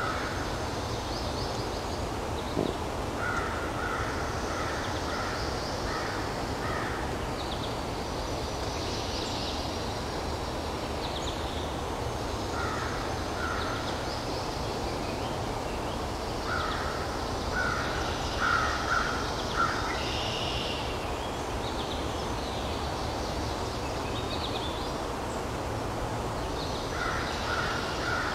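Woodland birdsong over a steady background hiss. A bird calls in short series of repeated, evenly spaced notes several times, with higher, thinner songbird chirps in between.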